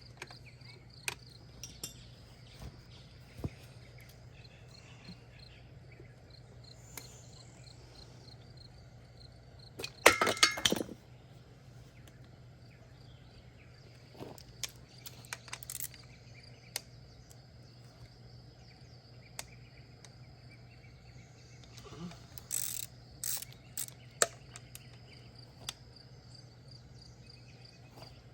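Scattered clinks and clicks of tools and metal engine parts being handled, with a loud clatter about ten seconds in and a smaller one a little past twenty seconds. Crickets chirp steadily behind, over a low steady hum.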